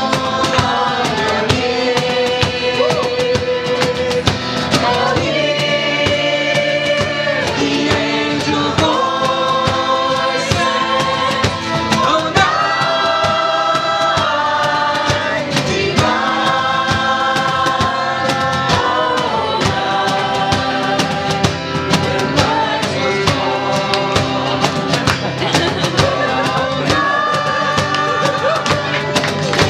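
Live acoustic ensemble music: long held notes, sung or played, changing pitch every second or two over light hand percussion.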